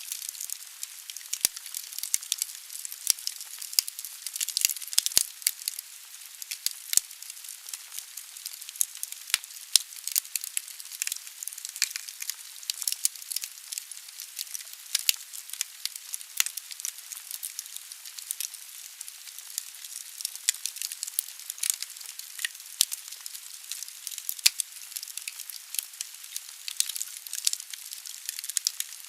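Wood fire burning in a fireplace: a steady hissing with frequent sharp crackles and pops from the burning logs.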